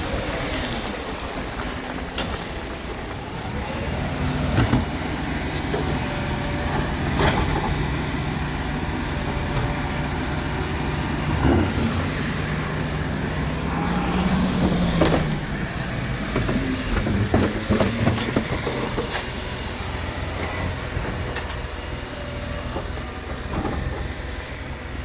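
Rubbish collection truck's engine running steadily, with a droning tone that swells and falls away about two-thirds of the way through, and several sharp knocks or clanks spaced through it.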